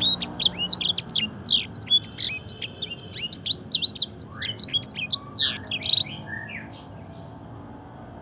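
Canary singing a fast, varied song of quick, mostly downward-sweeping notes in blackthroat-style phrasing. The song stops about six and a half seconds in, leaving a faint low background rumble.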